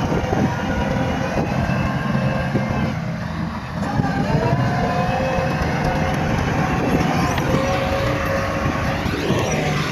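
Bulldozer's diesel engine running steadily under load. A whine comes in with a slight rise about four seconds in and bends away near the end.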